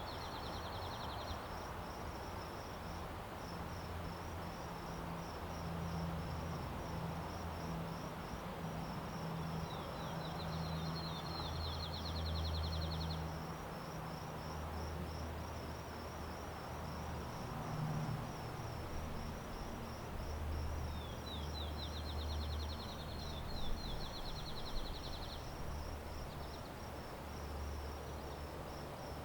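Insects chirping in a steady, rapid pulse throughout, with a bird song heard twice in full (and the tail of another at the start): a run of rising notes that speed up into a trill lasting about three to four seconds. A low, steady rumble lies underneath.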